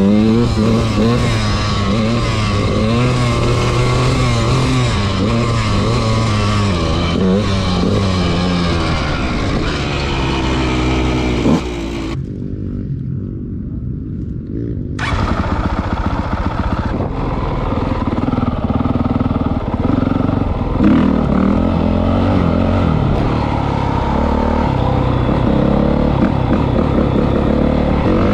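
Dirt bike engine running on a motocross track, its pitch rising and falling as the throttle is worked. About twelve seconds in, the higher sounds cut out for about three seconds, leaving only the low engine note, then return.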